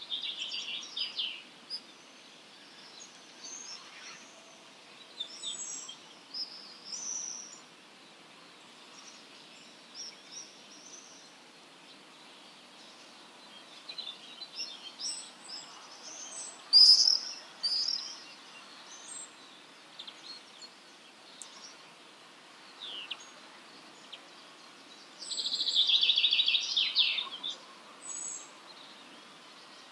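Several wild songbirds chirping and trilling in short, scattered phrases, with a loud brief call about halfway through and a dense rapid trill a couple of seconds before the end, over a steady faint background hiss.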